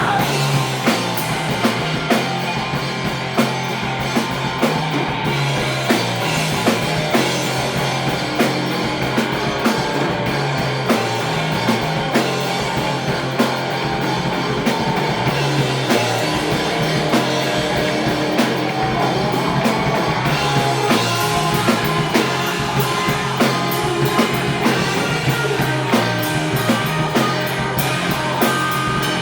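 Live surf-punk rock band playing an instrumental passage: electric guitar over a steady drum-kit beat, with no singing.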